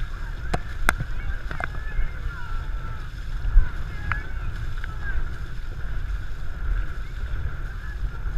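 Wind buffeting the microphone on a moving race boat, a steady low rumble, with a few sharp knocks in the first two seconds and a continual layer of faint wavering calls or shouts in the background.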